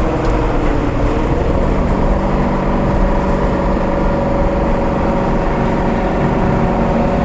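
Exhaust of a C6 Corvette Z06's LS7 7.0-litre V8 through a Corsa X-pipe and cat-back exhaust, heard from the rear bumper. The engine note falls in pitch over the first second or so, then holds at a steady, lower engine speed.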